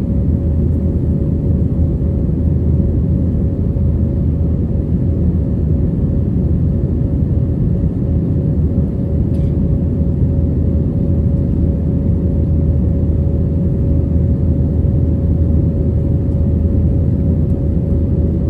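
Batik Air jet airliner heard from inside the passenger cabin, its engines running under power with a loud, steady rumble. A constant hum sits above the rumble throughout.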